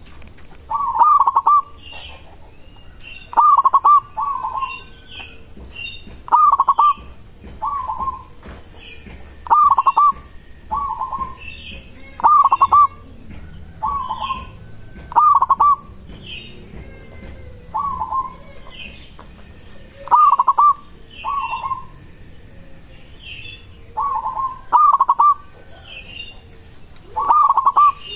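Zebra dove (perkutut) cooing: short repeated phrases about every one to two seconds, louder and softer ones in turn. Fainter high chirps sound between them.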